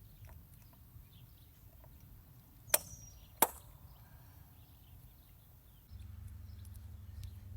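Two sharp clicks about two thirds of a second apart, with a brief high ring after the first, as small parts are snapped off or onto the truck by hand. About six seconds in, a low steady hum starts.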